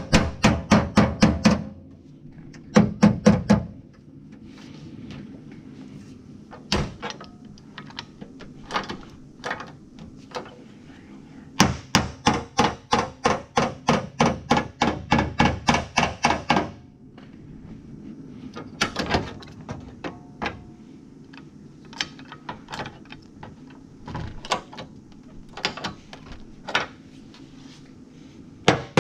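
Rapid hammer blows in quick runs of about five strikes a second, with single knocks between the runs and a long run in the middle, typical of hammering out a damaged car body panel.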